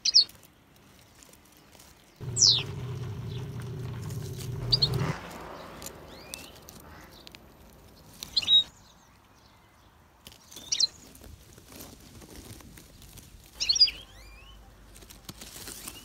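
Small birds chirping: about six short, high calls, each a quick downward sweep, spread a couple of seconds apart. A low steady hum runs beneath them for a few seconds early in the stretch.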